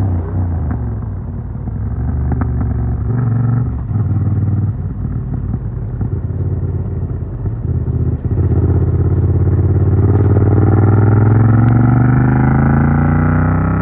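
Yamaha MT-07's 689 cc CP2 parallel-twin through an Arrow Works full exhaust with dB killer, engine-braking with falling revs and scattered pops and crackles on the overrun. About eight seconds in it opens up and the revs climb steadily, then ease off near the end.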